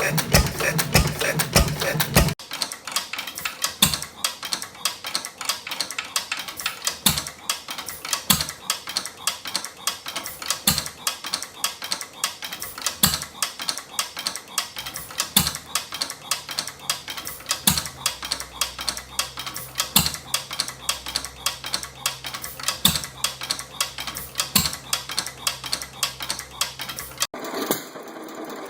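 Old Fairbanks Morse engine running, its mechanism clattering rapidly with a heavier knock every second or two; a low steady hum comes in about halfway. A different, louder engine firing steadily cuts off suddenly about two seconds in.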